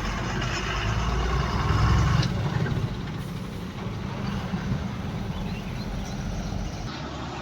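Heavy truck engine running as the truck goes by, a low rumble that grows louder for about the first two seconds and then drops sharply to a quieter, steady engine and road noise.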